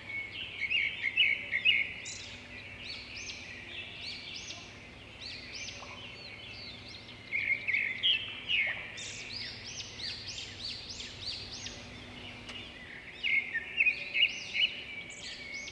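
Birds chirping: rapid runs of short rising notes that come in several bursts, with a faint steady hum underneath.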